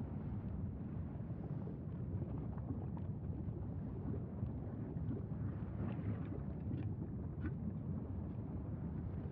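Wind buffeting the microphone: a steady low rumble with a few faint ticks about six to seven seconds in.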